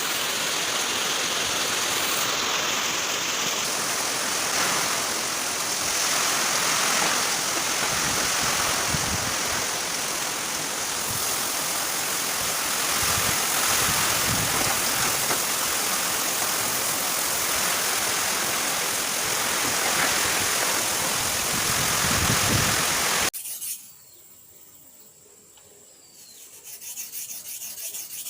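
Strong wind and heavy rain from Cyclone Yaas, a loud, steady rushing. About 23 seconds in it cuts off abruptly, leaving a much quieter stretch with faint bird chirps.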